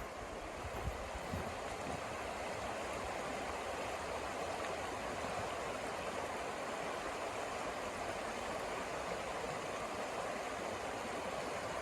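A steady rushing hiss with no breaks.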